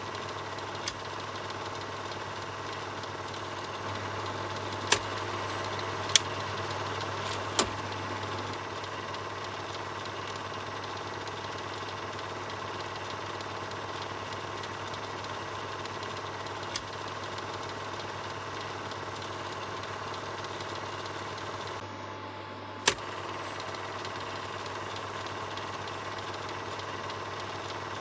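Film projector running with a steady mechanical whirr and hum. A few sharp clicks stand out, three between about 5 and 8 seconds in and a loud one about 23 seconds in, just after a brief drop in the sound.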